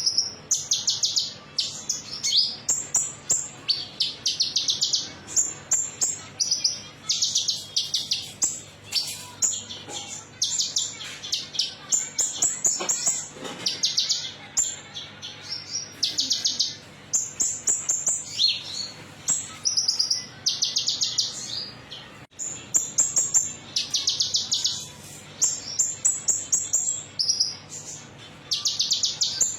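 A sunbird of the kind Indonesian bird keepers call 'konin metalik' (kolibri ninja), singing short, rapid, high-pitched trilled phrases one after another with brief gaps. This is lure song meant to stimulate caged birds to sing.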